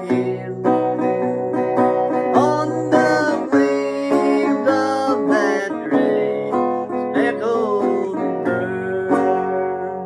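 Instrumental passage of a country gospel tune on plucked guitar, with notes bent up and down. It fades out over the last couple of seconds as the song ends.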